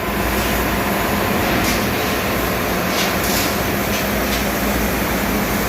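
Steady, loud machinery noise of a ship's engine room, with a low hum and a few faint metallic clicks or knocks.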